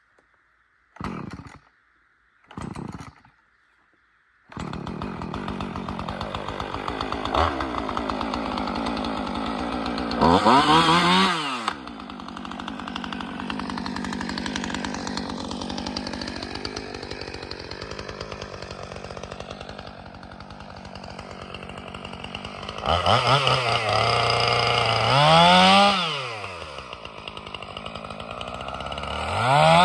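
Husqvarna 450 Rancher two-stroke chainsaw: two brief bursts as it is pull-started, then it catches about four seconds in and runs steadily. Its engine is revved up and back down about a third of the way in and several more times near the end.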